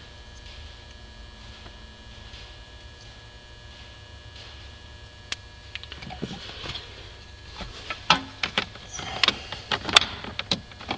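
Plastic parts and wiring being handled by hand: after a few seconds of faint hum, a run of clicks, rattles and short scraping rustles, loudest near the end.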